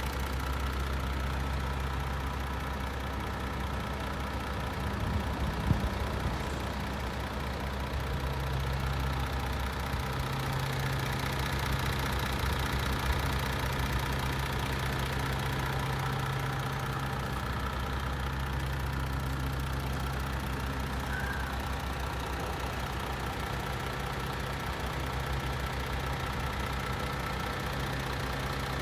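MAN TGX 26.460 truck's 12.4-litre straight-six diesel idling steadily, with a short knock about six seconds in.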